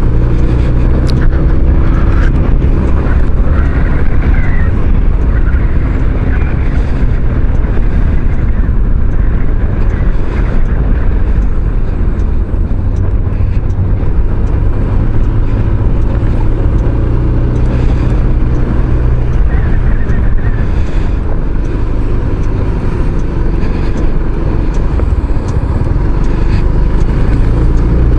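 Kymco Xciting 500 maxi-scooter engine running on the move, with loud steady wind and road noise over it; the engine note rises and falls a little with speed.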